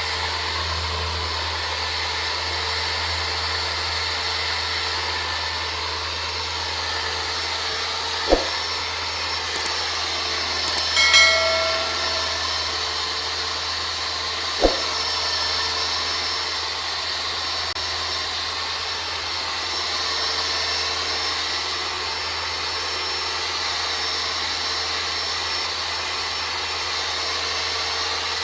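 Electric power sander running steadily during body-panel prep. Two sharp clicks come about a third and halfway through, with a short metallic clatter between them.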